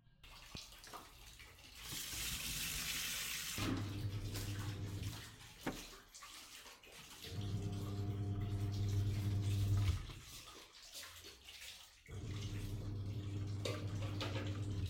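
Samsung twin-tub semi-automatic washing machine running with water churning in the tub. Its motor hums in three bursts of a couple of seconds each, with pauses between, after a rush of water about two seconds in.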